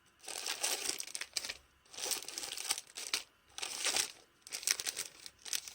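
Packaging crinkling and crumpling in four bouts with short pauses between, as the goods are handled.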